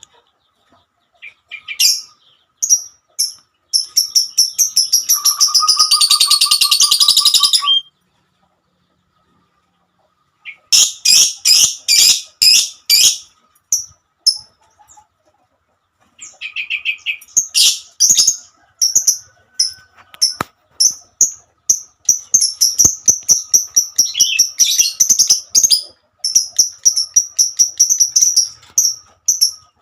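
Lovebird chattering in long runs of rapid, high-pitched chirps, with a pause of about two seconds after the first long run and sharp clicks mixed in among the later notes.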